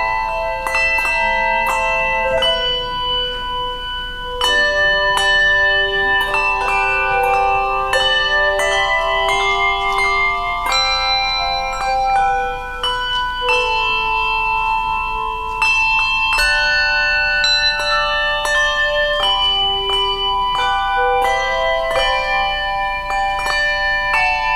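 A handbell choir ringing a piece in chords. The bells are struck together every second or two and left to ring on.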